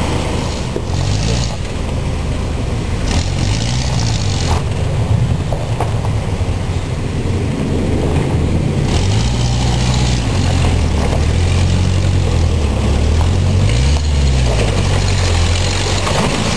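Engine of a four-wheel-drive vehicle revving up and down repeatedly as it crawls up a rocky off-road trail, its note rising and falling every second or two.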